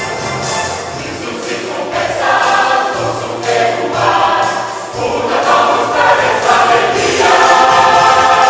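Church choir singing a Christmas song with instrumental accompaniment and jingle bells.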